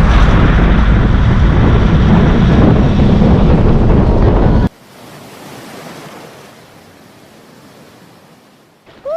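Wind buffeting the microphone over ocean surf, very loud and rumbling, cutting off abruptly about halfway through to a much quieter, steady wash of surf.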